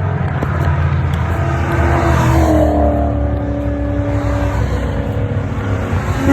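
Race car engines running under a steady low rumble. About two seconds in, one car's engine note comes up and falls slowly in pitch as it goes by, and another louder falling note arrives near the end.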